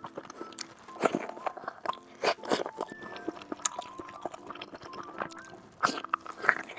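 Close-miked chewing and biting of cooked seafood: irregular wet clicks and crunches, with a few louder bites about a second in, midway and near the end.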